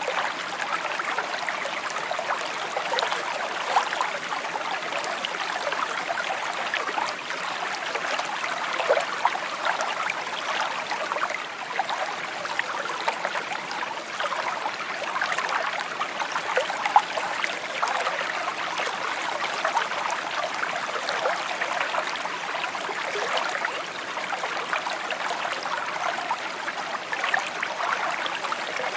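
A small shallow stream babbling over stones, a steady trickling and gurgling made of many small splashes.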